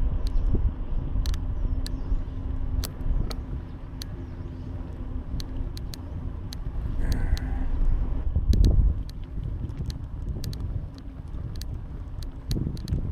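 Bicycle ride heard from a bike-mounted camera: steady low road and wind rumble with a scatter of sharp rattling clicks. A steady hum fades out about two-thirds of the way through, followed by a louder thump.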